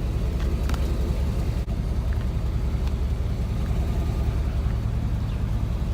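Car engine idling steadily, a low rumble heard from inside the car.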